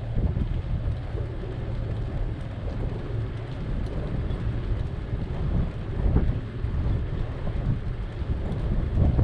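Wind buffeting the microphone of a camera riding along on a bicycle: a steady, gusting low rumble with a fainter hiss above it.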